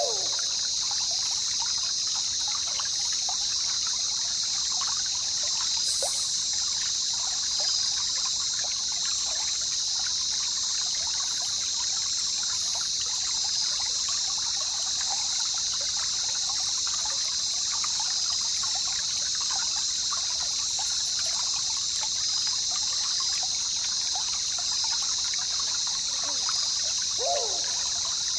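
Jungle river ambience: water trickling and flowing steadily over a constant high-pitched hiss. A short call falling in pitch comes near the end.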